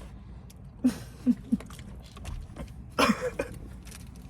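A person's short non-speech vocal sounds: three brief grunts about a second in, then a louder cough-like burst about three seconds in, over a steady low rumble.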